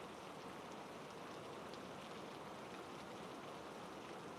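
Steady rain falling, a soft even patter with faint scattered drops.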